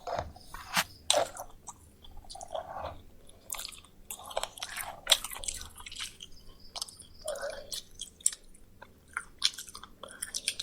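Close-miked chewing and biting of fried poultry: irregular wet smacks and crunchy clicks, with no steady rhythm.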